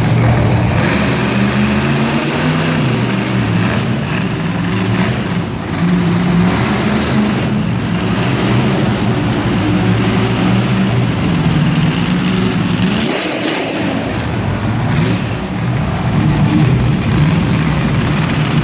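Monster truck engine running loud and revving, its pitch rising and falling over and over.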